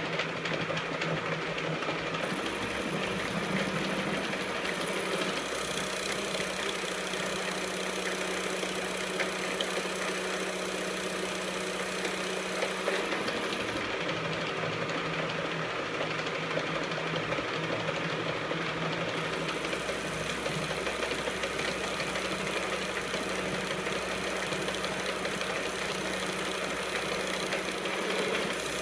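A metal lathe running steadily: motor and gearbox hum with a constant drone. The tone shifts slightly about halfway through and again about two-thirds in.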